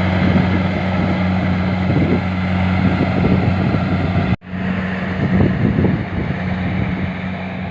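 Engine of a rice harvesting machine running steadily with a constant low hum and rattle, briefly cutting out about four and a half seconds in before carrying on the same.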